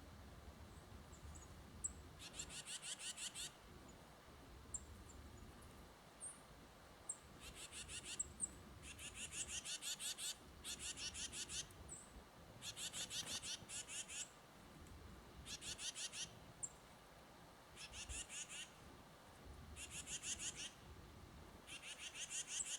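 A songbird singing a rapid, high trill of about a second, repeated some nine times, with short high chip notes between the trills.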